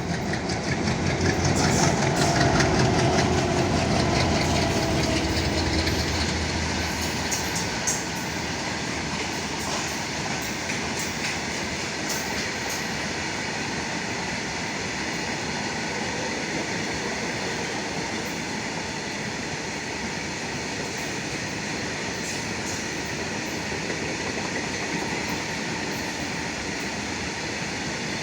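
Twin diesel locomotives working under load as they pass, loudest in the first six seconds or so, followed by a long string of loaded coal wagons rolling by with steady wheel-on-rail clatter and a faint high squeal.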